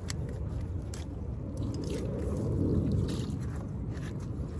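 Close handling noise of wet plant matter: squishing and scraping as fishing line is pulled apart from tangled roots and lake grass, with a low rumble that swells about two seconds in and a few small clicks.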